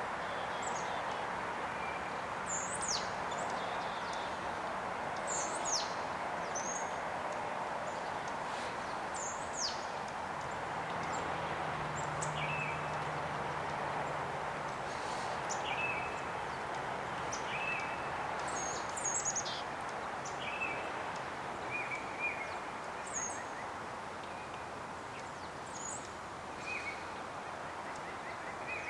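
Small birds giving short, high, thin calls, many of them falling quickly in pitch, scattered over a steady background rush. A faint low hum joins for about ten seconds midway.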